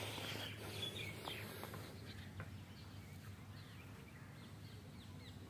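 Faint outdoor ambience with birds chirping in the background: many short, quick falling chirps over a steady low hum.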